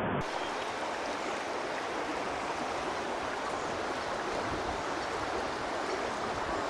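Water running steadily, an even rushing sound with no breaks.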